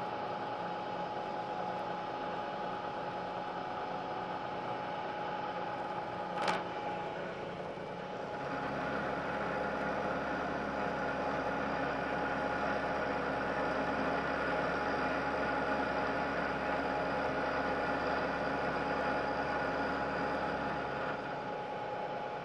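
Milling machine running with a steady whine, a sharp click about six seconds in, then for about twelve seconds a louder, deeper sound as the cutter takes a roughing cut of about 50 thousandths of an inch in steel.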